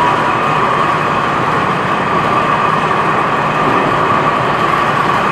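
Compressor in the truck of a Canadian Vickers MR-63 metro trailer car running loudly and steadily while the train idles at the platform. The owner takes this rough noise for a worrying sign of the ageing car: it "really doesn't sound right."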